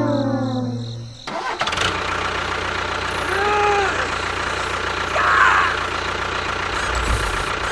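A falling tone for about the first second, then an engine running steadily, with a short rising-and-falling tone in the middle.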